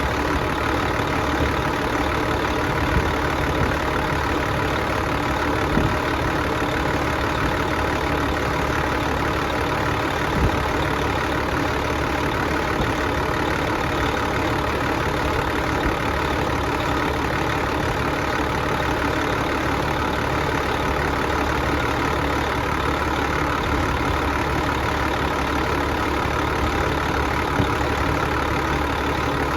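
Car engine running steadily at idle while being run to destruction, with an occasional sharp knock.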